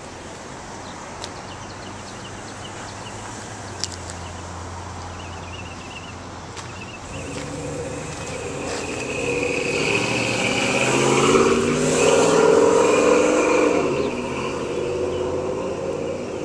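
A car engine running, low and steady at first, then growing louder from about halfway through, peaking and easing back near the end.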